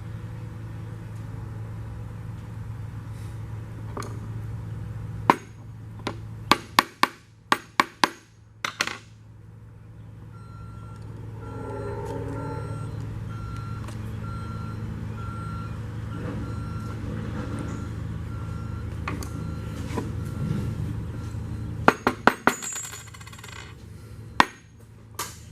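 Small metal transmission parts clicking and clinking sharply as they are handled and test-fitted, in two clusters of quick clicks, over a steady low hum. Through the middle a short beep repeats at an even pace for about ten seconds.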